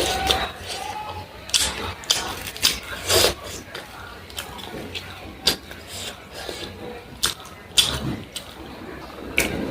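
A person eating close to the microphone: irregular sharp crunches and mouth clicks while chewing, about a dozen of them.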